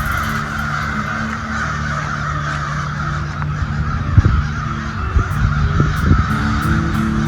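Crows cawing.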